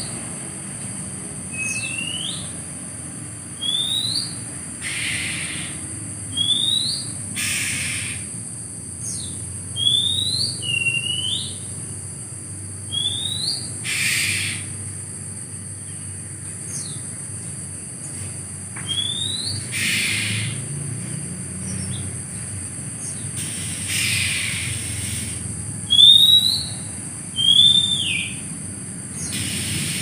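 A small bird repeating a short rising whistle about every two seconds, with a few brief hissing bursts in between and a steady high-pitched drone underneath.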